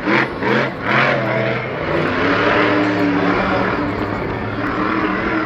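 A vehicle engine running, blipped in a few short revs at first, then holding a steady drone.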